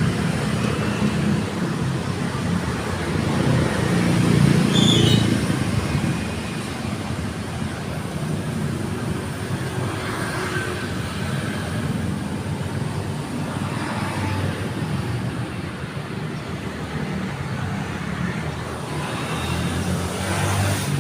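Road traffic: a steady low engine hum of passing vehicles, swelling about four to five seconds in, then settling to a steadier rumble.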